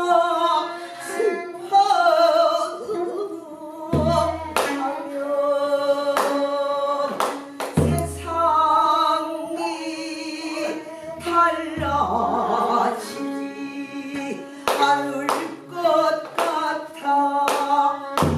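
Newly composed pansori singing with buk barrel-drum accompaniment: a deep drum stroke falls about every four seconds, with sharper, lighter strokes between.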